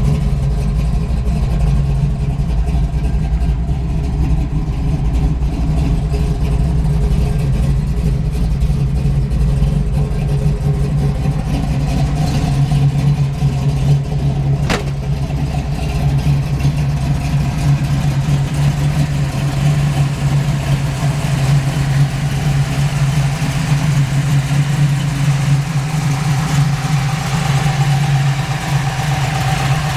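A 1970 Dodge Challenger's 505 cubic-inch wedge big-block V8 running steadily at idle, with one sharp click about halfway through.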